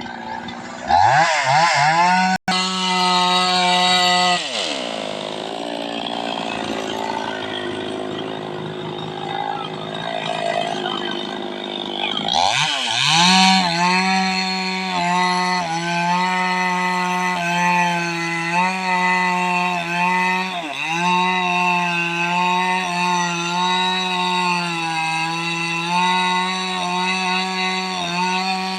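A 260-horsepower tractor engine revving: it winds up about a second in, drops back after a few seconds, then revs up again and is held at high revs with brief small dips.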